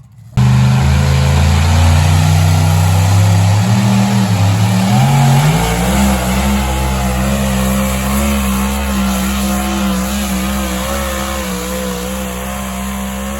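Pulling vehicle's engine at full throttle under heavy load, as in a pull run dragging the weight sled. It cuts in suddenly, its note climbs about five seconds in, then holds while slowly fading.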